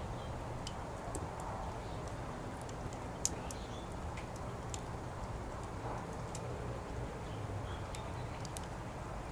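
Wood fire crackling in a fire pit: scattered sharp pops and ticks at irregular intervals, with one louder snap about three seconds in, over a low steady background rumble.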